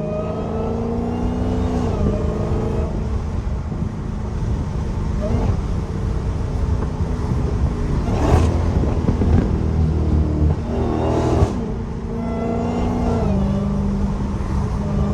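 Straight-piped Dodge Challenger Hellcat's supercharged 6.2-litre Hemi V8 under way, its pitch stepping and gliding up and down with throttle and gear changes. It gets louder in short pulls about eight and eleven seconds in.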